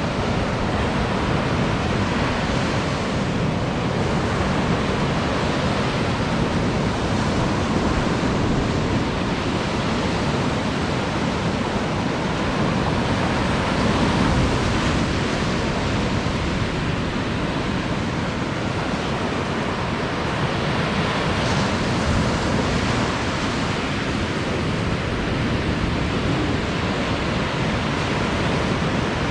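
Ocean surf breaking and washing on a beach: a steady rushing noise that swells gently now and then.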